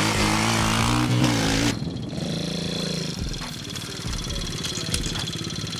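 Pit bike engine revving loudly, its pitch rising, then cut off abruptly about 1.7 seconds in, followed by a quieter, steady engine hum with a thin high whine.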